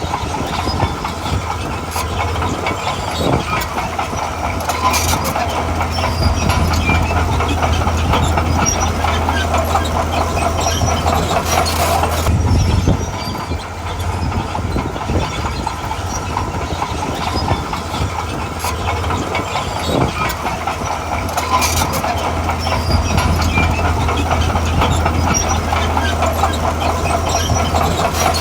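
Diesel engine of a tracked earthmoving machine running under load, with the steel crawler tracks clattering steadily and a few louder metal clanks.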